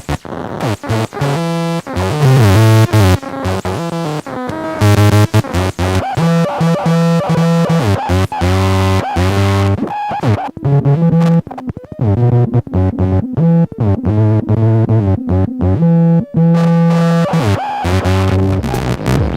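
Homemade noise synth's square-wave oscillators playing a sequenced pattern of short notes whose pitches step up and down, coloured by a lo-fi delay, over a drum machine's beat.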